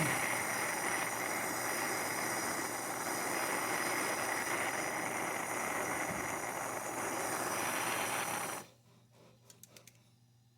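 Plumber's torch flame burning with a steady hiss while a copper joint is heated for soldering, shut off suddenly about eight and a half seconds in, followed by a few faint clicks.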